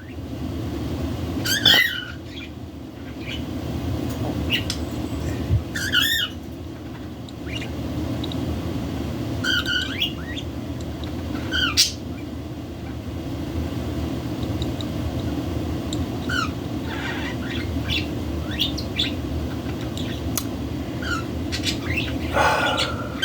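Pet budgerigars giving short chirps and squawks, one every few seconds, over a steady low background noise.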